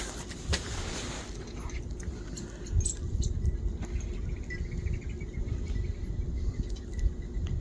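Wind rumbling on the microphone, with a few light clicks and, past the middle, a faint high trill held at one pitch for a couple of seconds.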